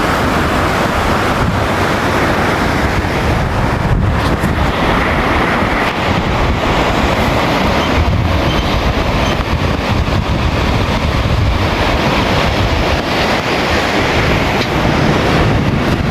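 Steady rushing of a fast river, with wind buffeting the microphone.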